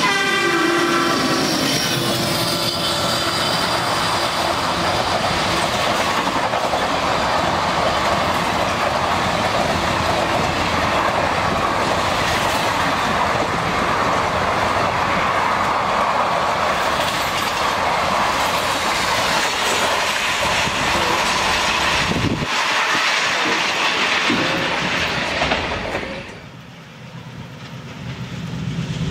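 Diesel-hauled Indian Railways passenger train passing at speed. Its horn falls in pitch as the locomotives go by, then the coaches rush past with the clickety-clack of wheels over rail joints. Near the end the sound drops away quickly.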